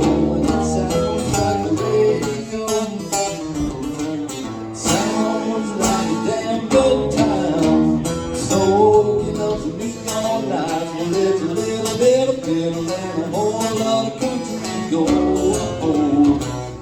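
Live country music led by guitar, the instrumental opening of a song.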